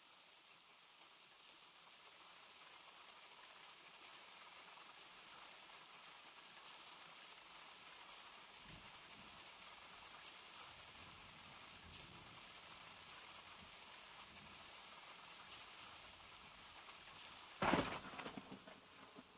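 Steady rain falling, an even hiss of drops that grows a little louder. Near the end a sudden loud crack, the loudest moment, dies away over a second or so.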